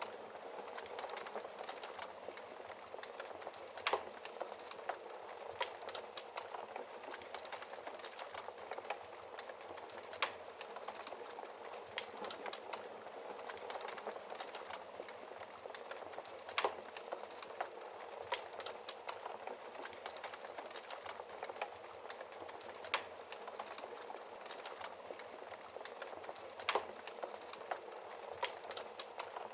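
Wood fire burning in a fireplace: a steady crackling hiss full of small ticks, with a sharp, louder pop every six seconds or so.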